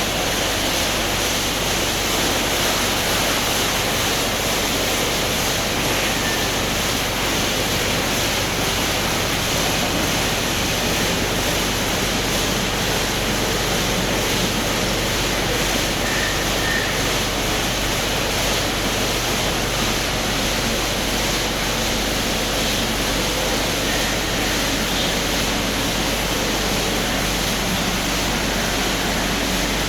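Kleindienst EUROWS tunnel car wash running, with a steady, unbroken rush of water spray and machinery.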